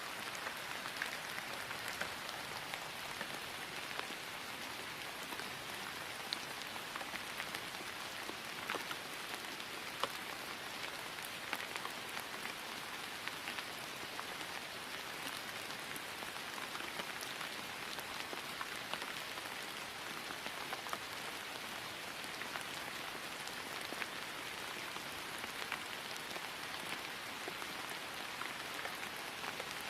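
Steady rain falling on grass, an even hiss with many small scattered drop ticks.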